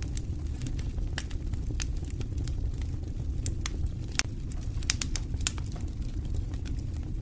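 Wood fire in a fireplace burning steadily: a low rumble of flames with frequent, irregular sharp crackles and pops.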